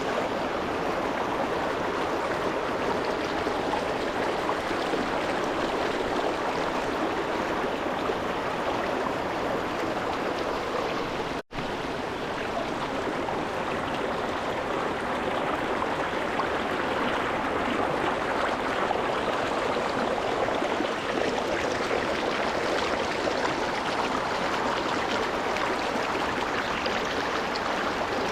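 A small rocky mountain stream running over stones, a steady rushing and splashing of water. A brief dropout in the sound comes about eleven seconds in.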